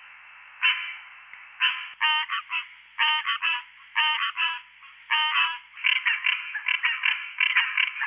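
Green treefrogs calling: short, nasal quonk notes about once a second at first, becoming a faster chorus of overlapping calls from more than one frog from about six seconds in.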